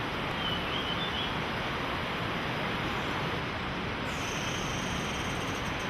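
Steady rushing of creek water, an even unbroken wash of noise. A faint short high chirp comes about half a second in, and a thin steady high tone joins about four seconds in.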